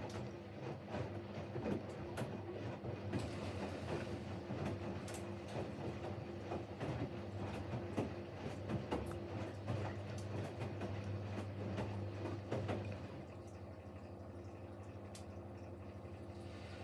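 Siemens Siwamat Plus 574 front-loading washing machine at the end of a rinse: the drum turns with irregular clatter and knocks over a steady hum. About three-quarters of the way through the tumbling stops, leaving only the quieter steady hum.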